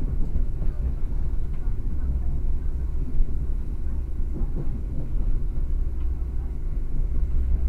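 Steady low rumble of a moving passenger train, wheels running on the rails, heard from inside the carriage.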